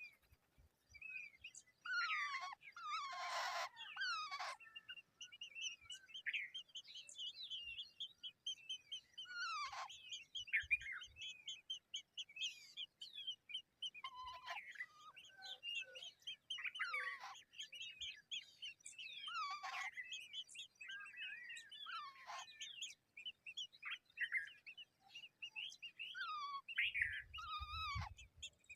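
Eurasian golden orioles calling: a steady run of short high chirps, broken every few seconds by louder calls that slide down in pitch.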